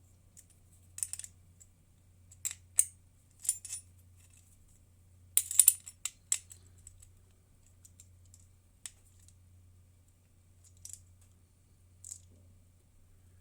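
Small metal carburettor parts and tools clicking and clinking as they are handled on a workbench: irregular sharp clicks with a short flurry about five and a half seconds in, over a low steady hum.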